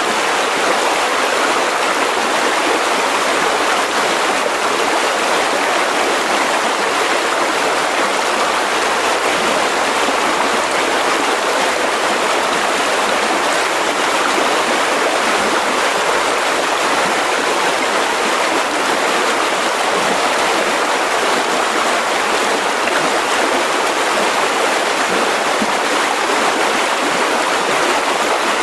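Mountain river rushing over rocks: a loud, steady, unbroken rush of water.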